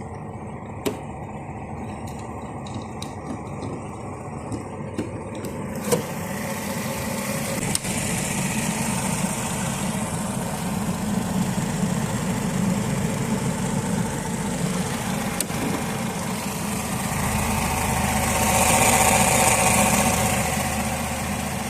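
Mercedes-Benz C180's M111 four-cylinder petrol engine running, slowly growing louder, with a stronger swell near the end and a few sharp clicks in the first few seconds.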